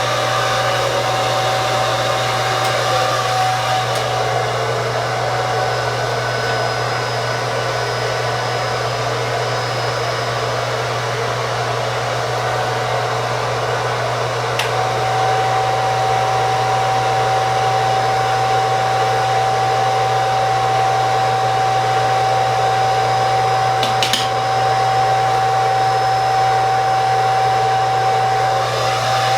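Handheld hair dryer blowing steadily as hair is blow-dried, a continuous airy rush over a low motor hum with a steady whine that weakens for a while and comes back stronger about halfway through. A brief click near the end.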